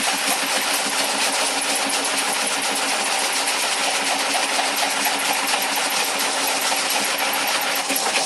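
Brush-making machine running steadily while making nylon-bristle toilet brushes: a fast, even clatter of many ticks over a steady hum.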